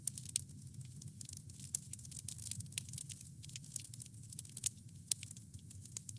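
Campfire crackling: many sharp, irregular pops and snaps from burning wood over a low, steady rumble of the flames.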